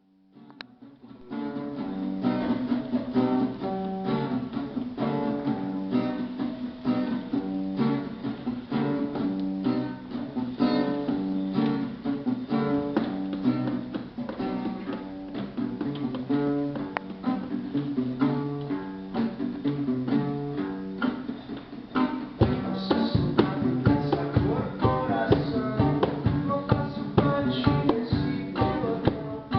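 Guitar music: a picked melody starts about a second in. About 22 seconds in, heavier rhythmic strumming with lower notes joins and the playing grows fuller.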